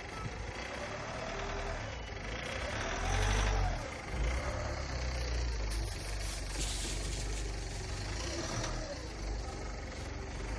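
Car engine pulling a travel trailer on a steep mountain dirt road, its pitch rising and falling several times as it revs, loudest about three seconds in. A short rushing noise comes near the middle.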